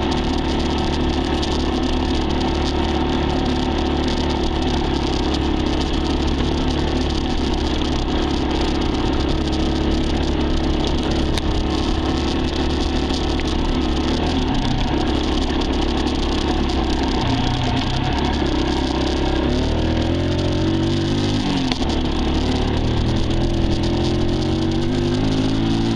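Dirt bike engine running while riding. It holds a steady pitch for the first half, then rises and falls in steps through the second half as the throttle and gears change.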